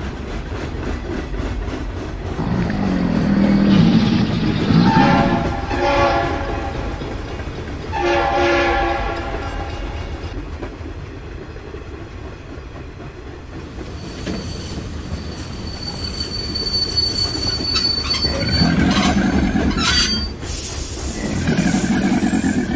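Diesel freight train running with a steady low rumble while its air horn sounds long blasts about three and eight seconds in, then two more near the end. A thin high wheel squeal rings in the second half.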